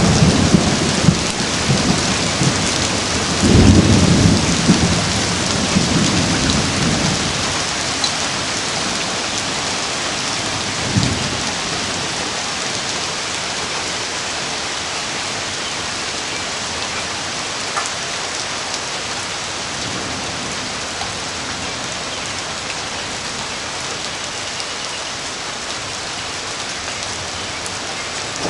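Thunderstorm: steady heavy rain with low thunder rumbles in the first few seconds, again around four to six seconds in, and a short one near eleven seconds. After that the thunder fades, leaving rain alone.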